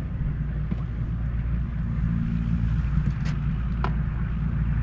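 Boat motor running steadily under way, a low drone with a few faint clicks.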